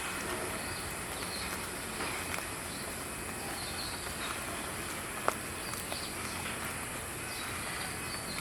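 Steady outdoor ambience with faint, scattered bird chirps, and one sharp click about five seconds in.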